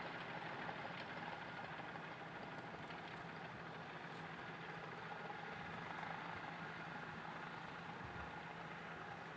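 Engine of an old farm machine running steadily, with an even hum.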